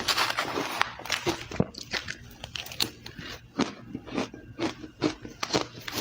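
Ice being bitten and chewed close to the microphone: a dense, irregular run of crisp crunches.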